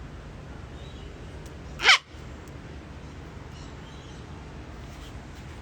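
A sulphur-crested cockatoo gives one short, loud squawk about two seconds in, over a steady low hum.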